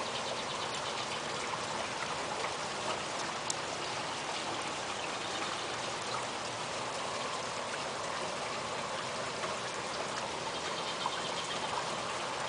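Light rain falling steadily, an even hiss with a few scattered drops ticking.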